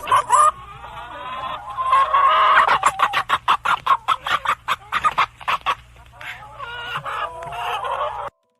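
Chickens clucking and cackling, with a fast run of short clucks in the middle; the sound cuts off abruptly near the end.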